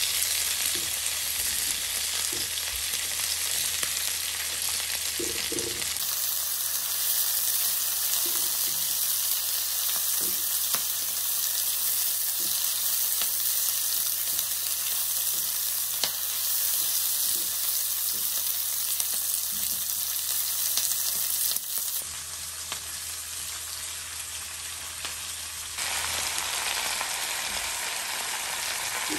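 Sliced onions and green peppers sizzling in hot oil in a wok, stirred with a silicone spatula that gives faint scattered taps. The sizzle changes level abruptly a few times. Near the end, sliced raw chicken is frying in the pan.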